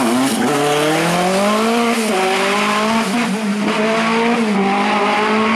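Rally car engine under hard acceleration. Its pitch climbs over the first two seconds, then holds high with a few brief dips.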